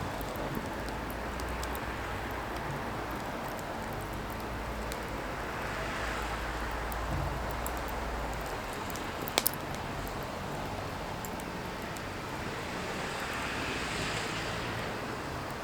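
Firewood burning: a steady rushing hiss with small crackles throughout and one sharp pop about nine seconds in.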